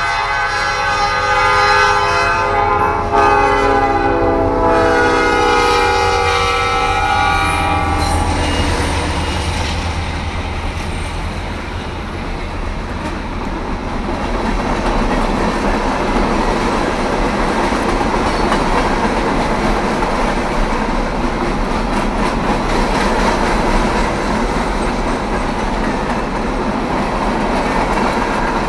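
Norfolk Southern freight train passing close by. The diesel locomotives' horn sounds a steady chord of several notes over the low hum of the engines for about the first eight seconds, then stops. After that the long string of open-top hopper cars rolls past with a steady noise of wheels on rail.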